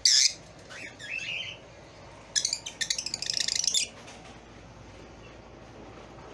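Lovebirds chirping: a sharp high call at the start and a short wavering call about a second in. Then comes a fast run of repeated chirps lasting over a second, after which the calls stop.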